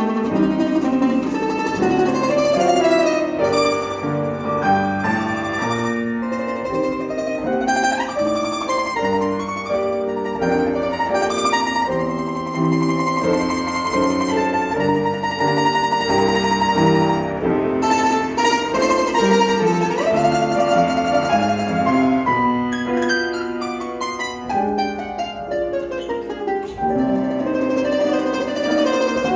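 Plucked string instruments playing a melodic instrumental piece, with a moving melody over lower accompanying notes.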